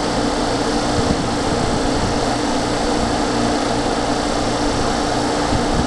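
Steady mechanical hum and noise from an electric train, with a steady low tone and a faint regular pulsing underneath.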